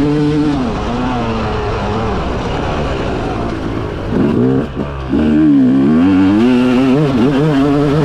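Motocross bike engine revving under hard acceleration, its pitch rising and falling with the throttle and gear changes. About halfway through it backs off briefly, then picks up again and holds at high revs.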